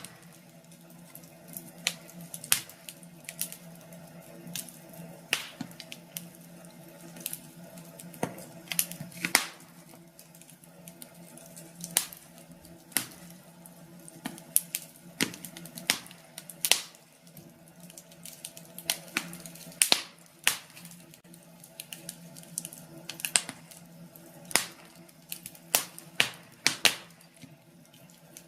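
Wood fire crackling in a fireplace: irregular sharp pops and snaps of uneven loudness over a faint steady low hum.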